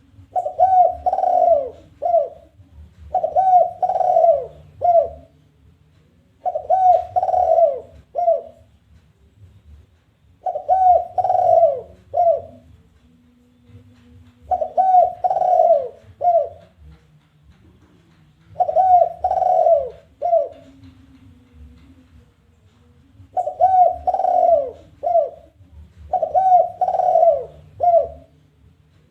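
Spotted dove (tekukur) giving its challenging call, 'kuk 1' style. The phrase repeats about every three to four seconds, eight times over: three quick cooing notes run together, then one short final note. A faint low hum lies underneath.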